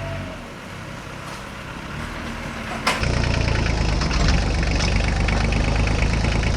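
An engine runs with a steady low hum. There is a click about three seconds in, after which the hum runs louder.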